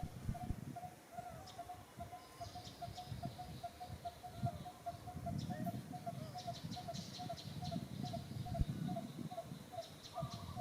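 A bird repeating a short, even note about three times a second, with scattered brief high chirps and a low rumble underneath.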